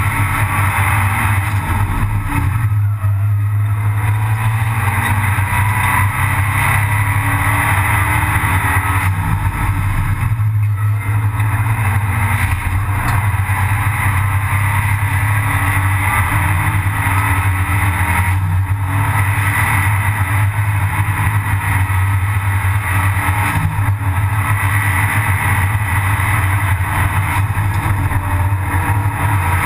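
Abarth 500 Assetto Corse race car's turbocharged 1.4-litre four-cylinder engine running hard under racing load, heard from inside the stripped cabin. The engine note drops briefly three times, a few seconds in, about a third of the way through, and past the middle.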